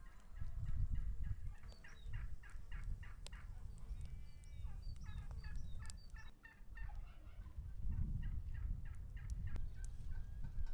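Domestic turkeys gobbling: quick runs of rattling calls, twice, over a steady low rumble.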